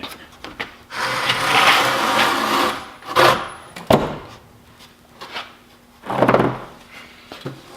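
Heavy wooden workbench frame being turned over: a scraping rumble for about two seconds, then two sharp knocks, and another scrape and knock near the end.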